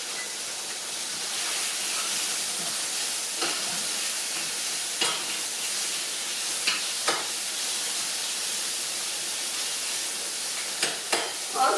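Chicken pieces, onion and bacon frying in oil in a skillet, sizzling steadily, with a few sharp clicks scattered through.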